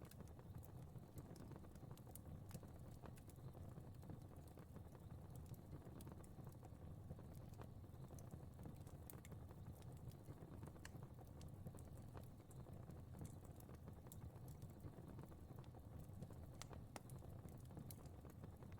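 Fire burning, a steady low rumble of flames with small crackles and pops scattered irregularly through it.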